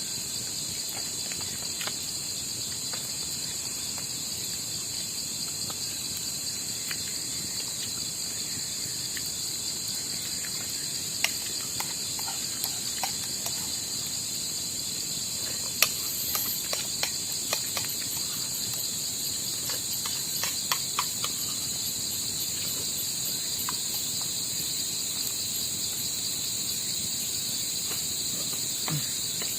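Crickets and other insects trilling in a steady high-pitched chorus. Scattered small clicks and taps come through it midway.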